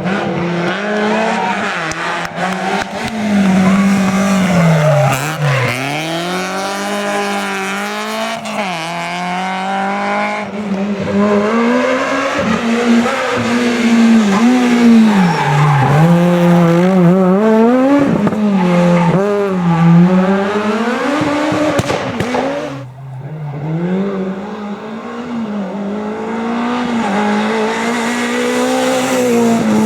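Rally car engines revving hard at full load, the pitch repeatedly climbing and dropping as the drivers shift gears and brake for corners. There is a brief lull about three-quarters of the way through before the engine note picks up again.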